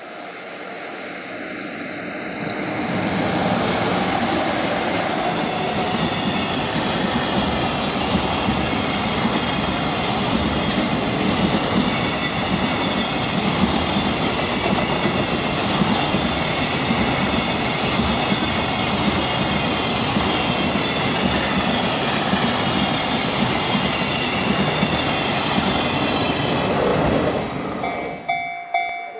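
Container freight train hauled by a JR Freight EF66 electric locomotive passing close by, with wagon wheels rumbling and clattering on the rails. The sound swells over the first three seconds, holds steady, then cuts off suddenly near the end.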